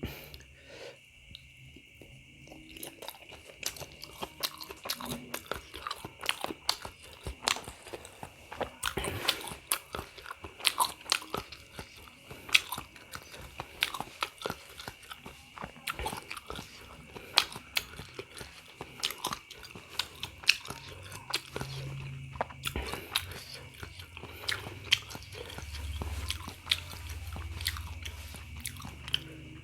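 Close-miked mouth sounds of someone chewing and biting beef meatballs (pentol bakso): a dense, irregular stream of small wet clicks and smacks.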